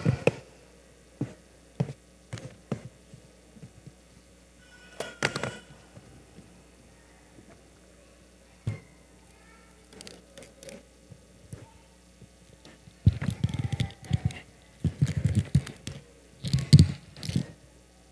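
Scattered knocks and thumps, with heavier bursts of low thumping near the end, over a faint steady hum.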